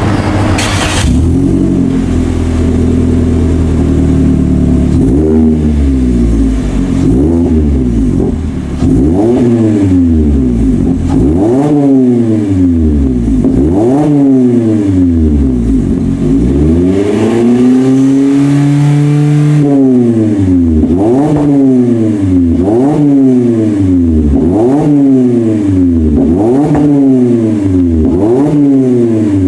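Toyota 90-series Voxy (MZRA90W) 2.0-litre four-cylinder exhaust with a straight-piped centre section and a four-tip one-off muffler. It opens with a short burst, idles for a few seconds, then is blipped again and again, each rev rising and falling quickly. About two-thirds through comes one longer held rev, followed by more quick blips.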